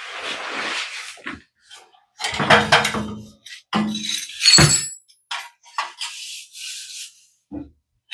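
Metal parts of a gas water heater's burner assembly scraping and knocking as it is worked out of the combustion chamber: scraping at the start and again near the end, a cluster of knocks a couple of seconds in, and one sharp knock that rings briefly about four and a half seconds in.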